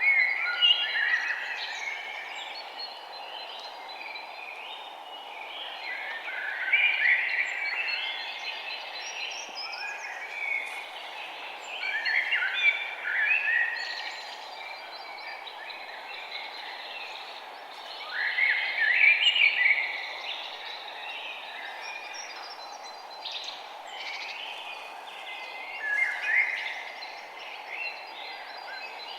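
Songbirds chirping and singing in a chorus, with louder bursts of song about every six seconds, over a steady low background hiss.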